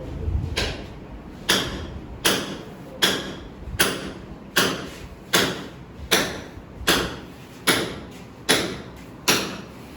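A sharp knock or tap repeating at an even pace, about once every three-quarters of a second, each one fading quickly.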